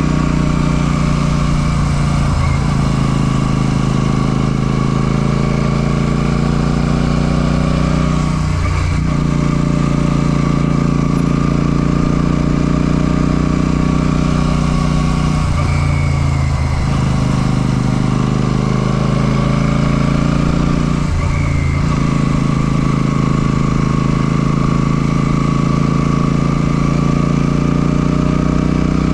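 Royal Enfield Classic 650's parallel-twin engine running under way. The note holds steady and dips briefly in pitch four times before picking up again.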